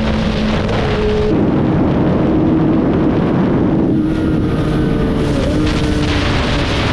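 Motorcycle engines running at steady riding speed under heavy wind rush on the microphone. The engine tone shifts pitch a few times as the speed changes.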